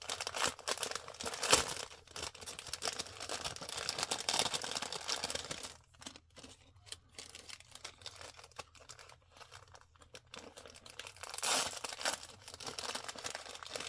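Plastic packaging crinkling and tearing as small items are unwrapped: a dense run of crackling for about the first six seconds, then sparser crinkles and clicks, with a louder rustle late on.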